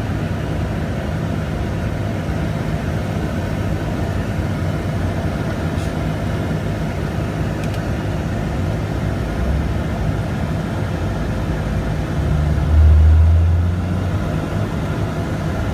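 Steady vehicle running noise, with a low rumble that swells briefly near the end.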